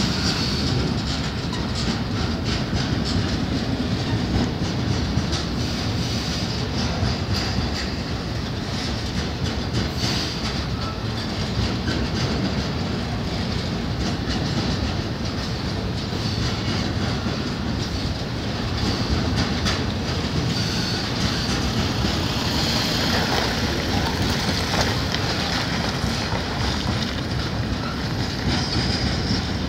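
Coal train hopper wagons rolling steadily past: a continuous rumble of steel wheels on rail, with repeated clacking as the wheels cross rail joints.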